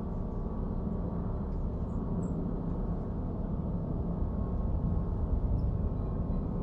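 Steady low rumbling noise, with a couple of faint, short, high bird chirps.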